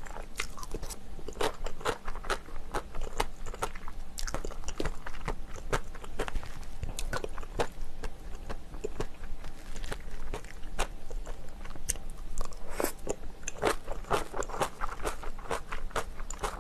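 Close-miked chewing and biting of spicy chicken: a steady, irregular run of sharp wet crunches and mouth clicks, a few each second, thickening briefly near the end.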